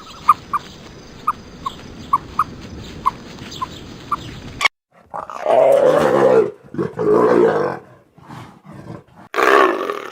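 Short high chirps about twice a second, then after a sudden cut, three loud drawn-out animal calls of about a second each.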